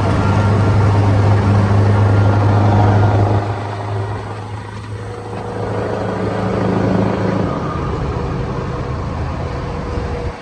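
Scania R620's 16-litre V8 diesel running loud through an open, loud exhaust pipe, with a strong low engine note. It drops off about a third of the way in, rises again, then eases toward the end.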